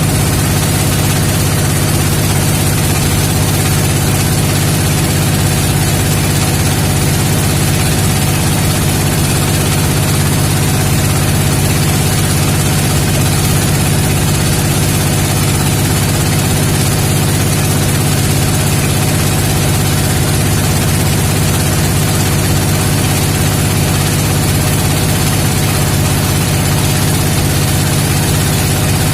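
An engine running steadily at a constant speed: a loud, even drone that holds the same pitch throughout.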